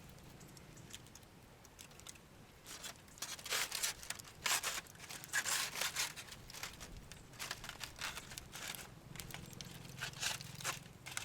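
Aluminium foil crinkling and rustling in irregular bursts as it is handled, starting about three seconds in.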